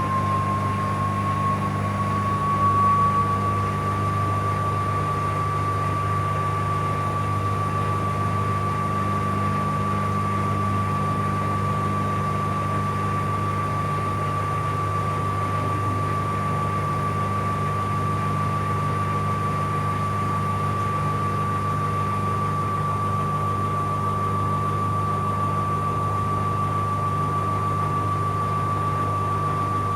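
Bauknecht Super Eco 7615 washing machine running: a steady high whine from its inverter motor drive, rising slightly over the first few seconds and then holding one pitch, over a constant low hum.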